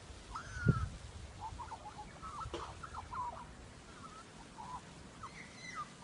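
Australian magpie warbling: a long run of short, squeaky gliding notes with a strange, computer-like quality. A low thump sounds about a second in.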